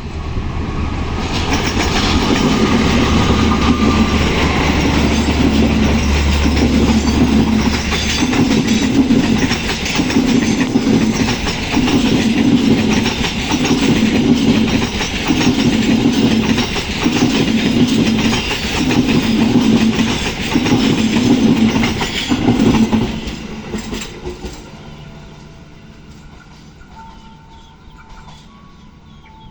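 A CC 206 diesel-electric locomotive and its passenger coaches passing at speed. The locomotive's low engine drone is heard first, followed by the coaches' wheels clattering over the rail joints about once every second and a half, and then the noise fades away near the end.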